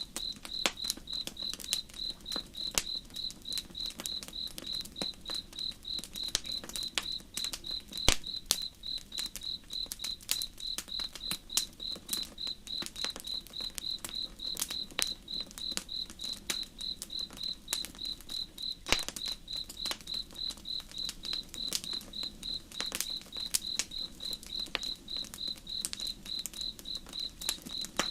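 A cricket chirping steadily, about three chirps a second, over the crackle of a campfire, with a couple of sharper pops about 8 and 19 seconds in.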